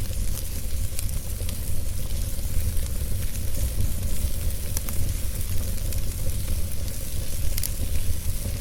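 Fire crackling, with scattered sharp pops over a steady hiss and a low rumble.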